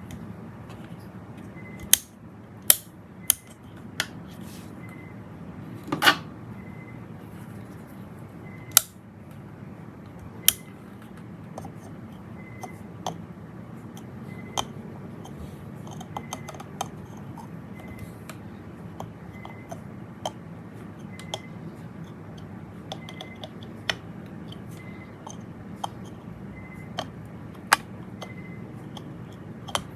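Scattered sharp clicks and taps of small parts and tools being handled during an LED bulb repair, over a low steady hum.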